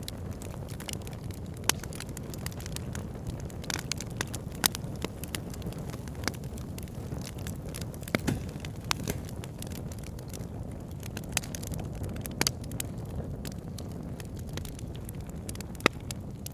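Wood fire burning in a fireplace: a steady low rumble of flames with frequent, irregular sharp crackles and pops from the burning wood, a handful of them louder snaps.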